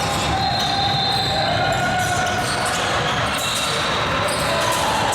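Basketball game on an indoor court: a ball bouncing and shoes squeaking on the floor over a steady murmur of voices, with hall echo.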